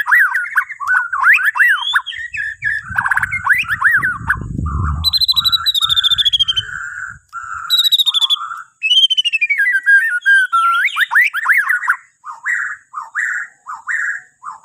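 A Bornean white-rumped shama (murai batu Borneo) singing a loud, varied song of rapid whistles, sliding notes and trills without pause. A low rumble sounds underneath for a few seconds in the middle.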